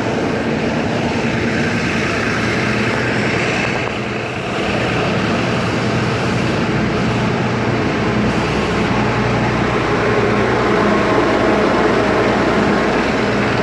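Bus engine running steadily: a low, even hum under a broad hiss.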